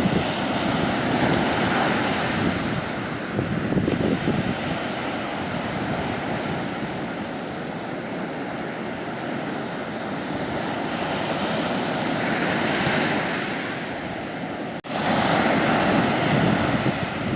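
Sea waves breaking and washing up on the beach, the surf swelling and easing in slow surges. The sound cuts out for an instant near the end and returns louder.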